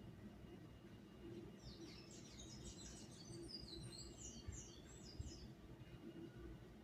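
A small bird singing faintly: a quick run of high chirping notes, starting about a second and a half in and lasting about four seconds.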